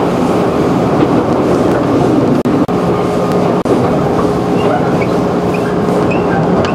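Running noise inside a 211-series electric multiple unit at speed: wheels rolling on the rails with a steady hum underneath.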